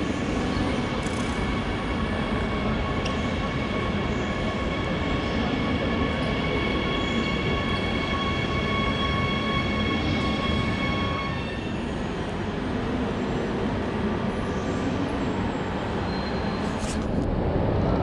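Train in a large station hall: a steady rumble with a high, several-toned whine over it that stops about two-thirds of the way through, the rumble going on after.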